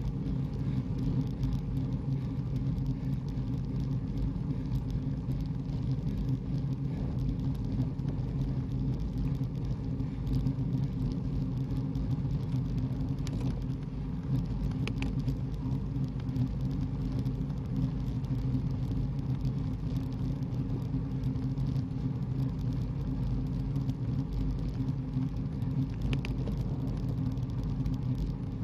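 A car driving at a steady speed: an even, low rumble of engine and road noise.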